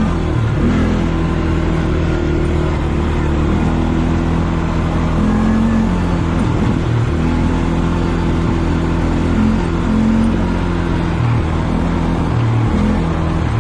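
ATV engine running while riding, its pitch stepping up and down with the throttle, over a steady rushing noise.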